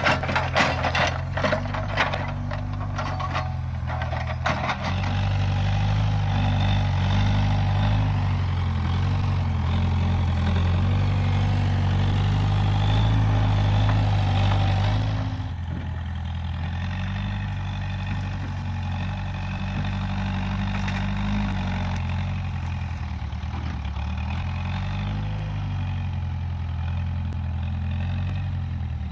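Case 580G backhoe loader's diesel engine running, with a quick series of sharp cracks of breaking wood in the first few seconds. The engine runs louder from about five seconds in, then drops back to a quieter steady run about halfway through.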